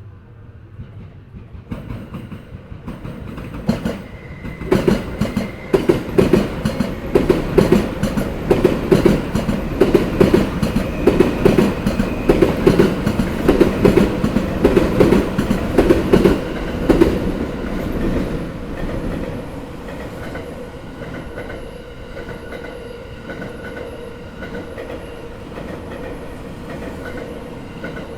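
Sobu Line electric commuter train passing over rail joints: the wheels knock over the joints in a fast, loud clickety-clack that builds from about four seconds in and eases off after about seventeen seconds, leaving a steadier running sound with a held tone.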